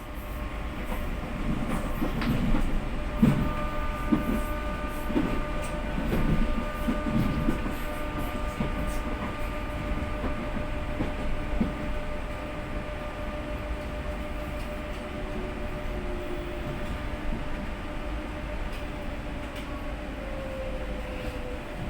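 Electric commuter train pulling into a station and slowing to a stop: its wheels knock over the rail joints for the first several seconds, then fade, under a steady motor whine. A short falling squeal comes near the end.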